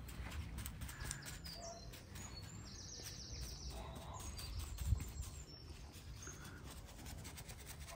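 Small birds chirping, with one short rapid trill about three seconds in, over the soft scratching of a paintbrush on a rough concrete statue. A single low thump comes about five seconds in.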